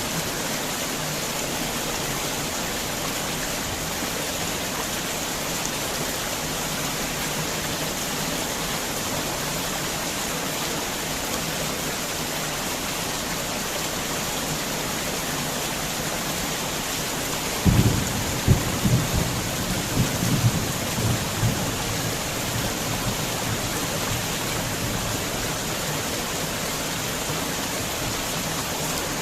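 Heavy rain falling steadily. About two-thirds of the way through, a sudden low rumble of thunder with several sharp cracks breaks in and dies away over a few seconds.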